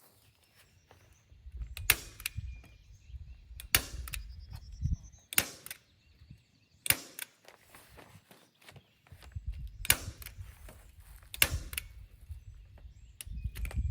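A heavy-duty staple gun firing T50 staples through plastic sheeting into a wooden 2x4 frame. It fires about seven sharp snaps, roughly one and a half to two seconds apart, with a longer pause midway. A low rumble runs underneath.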